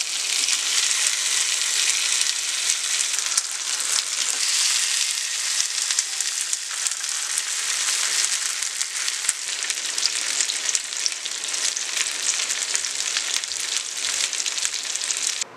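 Marinated paneer tikka skewers of paneer, onion and capsicum sizzling on a hot grill pan: a steady frying hiss with fine crackles as the marinade sears and chars.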